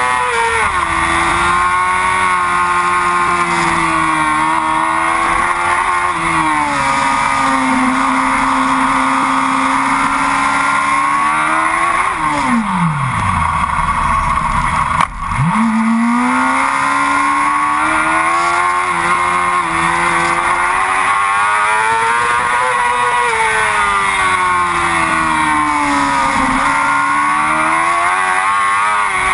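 Racing motorcycle's inline-four engine running hard, its pitch rising and falling with the revs through gear changes and corners. A sharp click comes about halfway through, after which the engine note climbs again.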